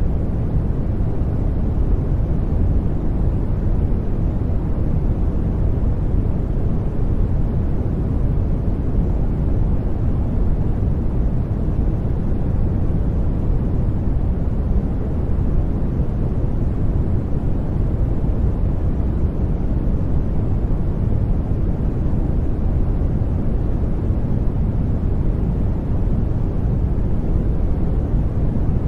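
Brown noise: a steady, deep, even rush of noise that is strongest in the bass and falls off toward the treble, with no changes.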